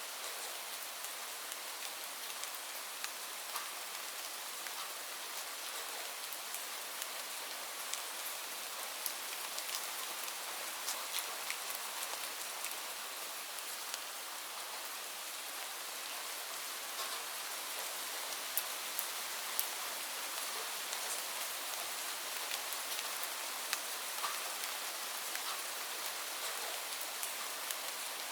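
Steady rain falling, a continuous hiss with many distinct drops ticking close by on a surface.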